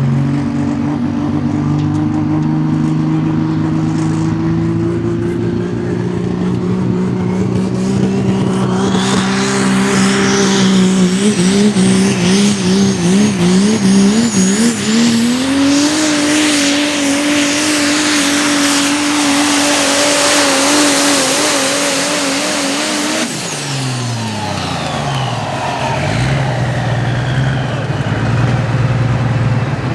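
Turbocharged super stock diesel pulling truck engine at full power under load, its pitch climbing slowly with a high turbo whistle rising alongside and the note wavering rapidly for a few seconds. It then holds high until about three quarters of the way through, when it cuts off and winds down to a lower steady idle.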